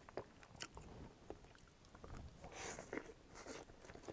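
Close-miked chewing of noodles: soft wet mouth clicks and smacks, with a brief noisy rush a little past halfway.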